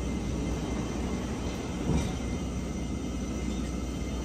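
Steady low rumble of vintage passenger train carriages at a station platform, with one short knock about two seconds in.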